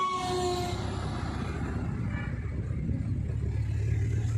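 Heavy goods truck's diesel engine running with a low, steady rumble that grows louder near the end.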